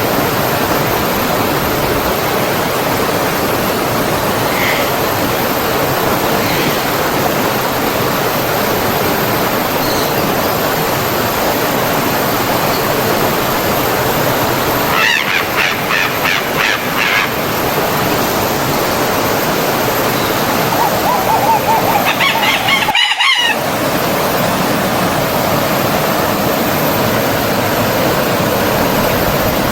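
Steady rushing of a stream or small waterfall, with birds calling over it: a quick run of repeated chirps about halfway through, then a longer call a little later, cut short by a momentary break in the sound.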